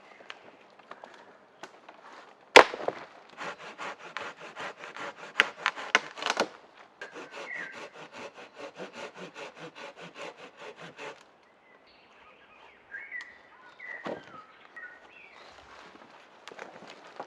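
A saw cutting through a wooden branch in quick, even strokes, about four a second, in two runs, after one sharp woody crack. A few faint bird chirps follow once the sawing stops.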